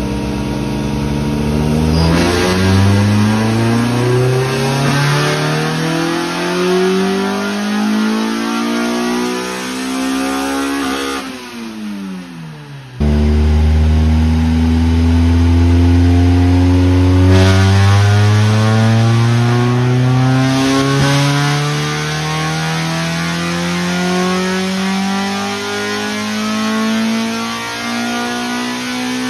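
Honda B20 VTEC four-cylinder in a Civic hatchback making full-throttle pulls on a chassis dyno. The engine note climbs steadily, drops back quickly about 11 seconds in, then a second pull starts abruptly and climbs steadily again.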